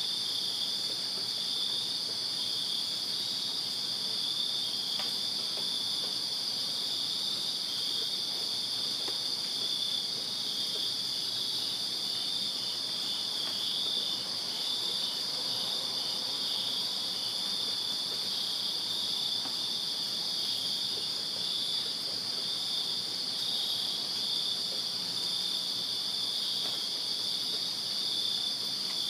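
Chorus of crickets chirping: a steady, unbroken high-pitched trill from several insects at once, with one pulsing chirp rhythm standing out in the middle.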